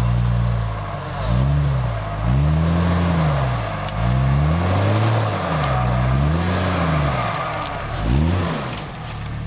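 Jeep 4x4's engine revved hard and let off again and again, about six times, as the stuck vehicle is driven under load to climb out of deep mud and snow.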